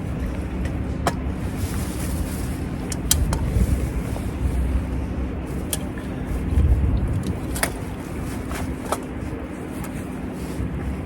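Low steady rumble of motor vehicles passing on a nearby road, swelling once around the middle, with a handful of sharp clicks and clinks of camp gear being handled as it is packed away.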